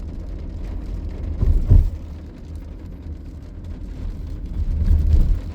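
Car driving, heard from inside the cabin: a steady low road-and-engine rumble, swelling louder briefly about a second and a half in and again near the end.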